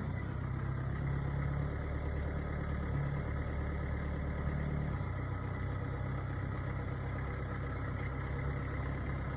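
Diesel engine idling steadily, its tone shifting slightly about five seconds in.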